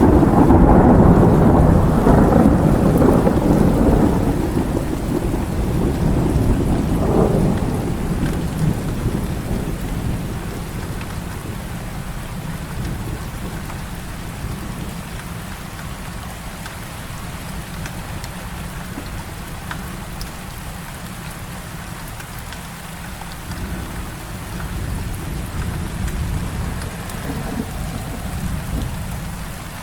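Heavy rain falling steadily, with a loud roll of thunder that breaks right at the start and rumbles away over about eight seconds. A fainter rumble of thunder swells again near the end.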